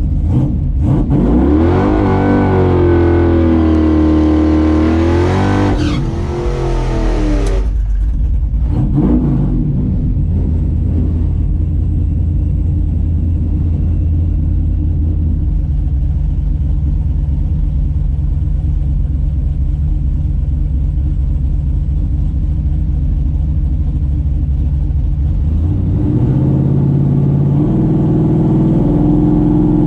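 Drag car engine revving hard at full throttle for about seven seconds, its pitch sweeping up and holding high, then falling away. It then settles to a steady low rumble, and near the end the note steps up a little.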